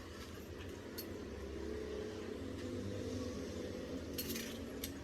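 A few light clinks over a low steady hum: a short click about a second in, then a brief rattle just after four seconds and another near the end.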